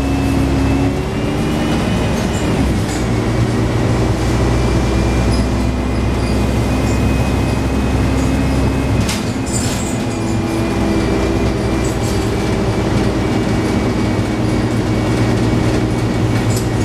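Scania N113 double-decker bus running under way, heard from inside the cabin: the engine drones with a steady high transmission whine over it. The engine note changes about 2 seconds in and drops about 9 seconds in, with a brief clatter of body rattles around then.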